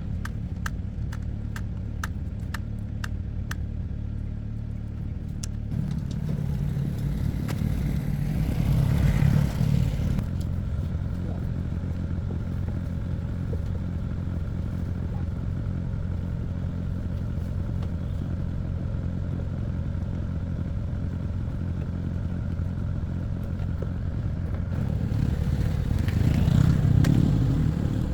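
Excavator engine running steadily, growing louder twice: about eight seconds in and again near the end. Light clicking over the first few seconds.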